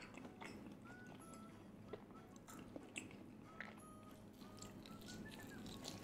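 Faint close-miked chewing with small crisp crunches and wet mouth clicks: a person eating. A few short, faint whistle-like tones sound in the background.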